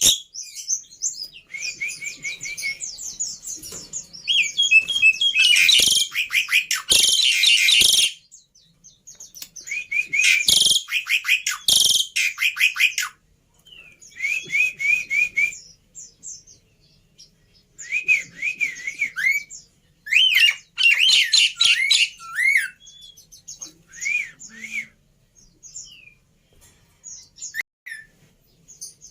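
Black-winged myna (jalak putih) singing: bursts of fast repeated chirps and chattering trills with short pauses between them, thinning to scattered single notes near the end.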